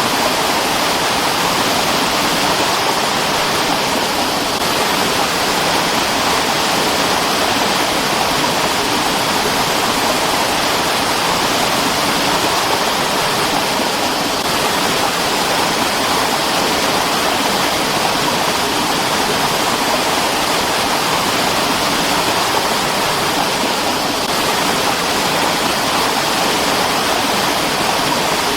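Mountain stream rushing over rocks, a steady, unbroken water noise.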